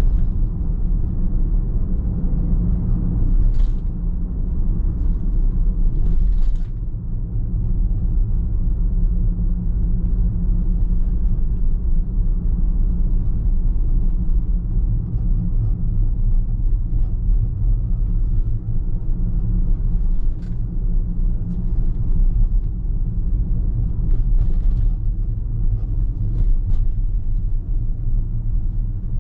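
Steady low rumble of a car being driven, tyre and engine noise on the road, with a few faint short ticks scattered through it.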